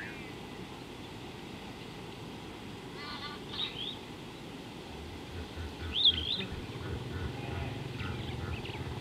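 Wild birds calling in short chirps and whistles, a few seconds apart, the loudest about six seconds in, over steady outdoor background noise. A low hum comes in about halfway through.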